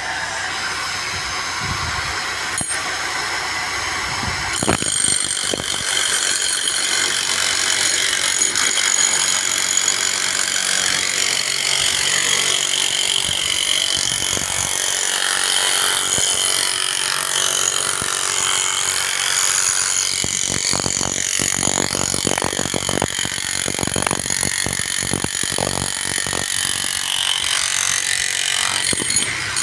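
Construction machinery and tool noise, with steady high-pitched whines and a dense run of knocks and clanks about two-thirds of the way through.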